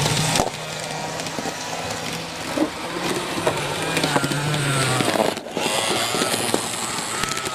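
Eidai Nine KiHa 40 model railcar running on its track: the small motor hums steadily, with scattered clicks from the wheels on the rails. There is a brief break about five and a half seconds in.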